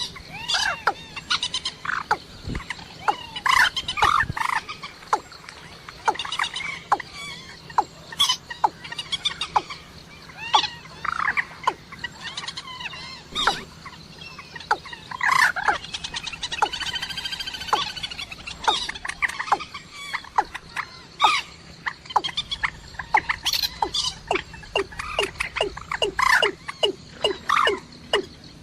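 Rails calling, moorhen and watercock as played for luring birds: a rapid, irregular series of short, sharp call notes, a few a second, with one longer, fuller call in the middle.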